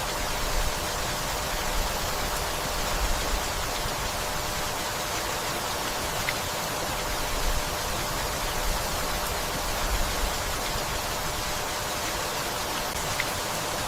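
Gentle rain falling in a forest: an even, steady hiss with no break.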